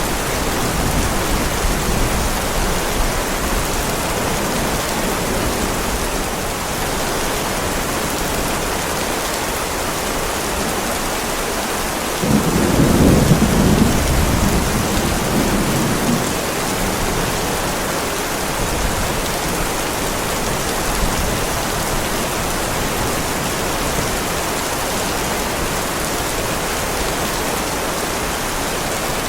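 Heavy rain falling steadily on a driveway. About twelve seconds in, a rumble of thunder comes in suddenly and fades over a few seconds.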